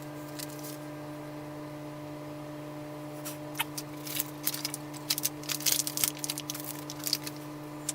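Parts being handled during assembly: light clicks, taps and rustling that start about three seconds in and come in quick clusters. A steady low electrical hum runs underneath.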